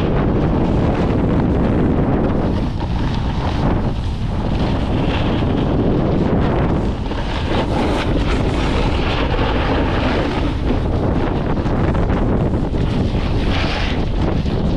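Wind rushing and buffeting over the microphone of a snowboarder riding downhill, mixed with the board sliding and scraping over the snow.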